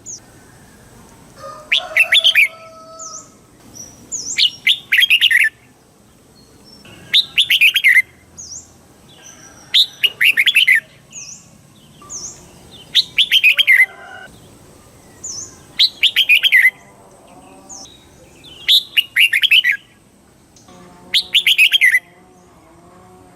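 Red-whiskered bulbul singing: a short burst of quick, falling whistled notes about every three seconds, with faint thin high notes in the gaps.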